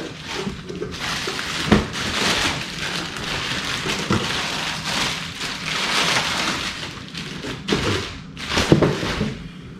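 Crinkling and rustling of packaging material as parts are pulled out of the box, with a few light knocks of parts being handled.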